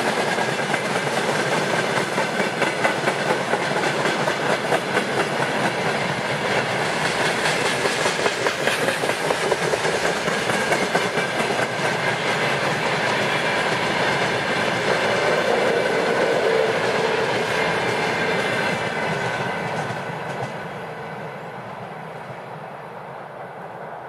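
Freight train's tank cars and open gondola wagons rolling past close by, their wheels clattering rhythmically over the rail joints. The sound drops away about 20 seconds in as the last wagon passes, then fades.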